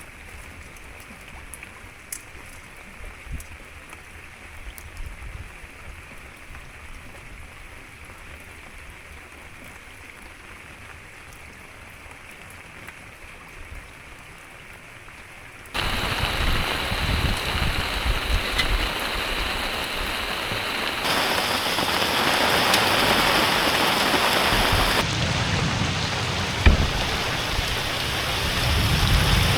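Rain, first a lighter patter with scattered drops, then about halfway through a sudden switch to much louder, heavy rain pouring down.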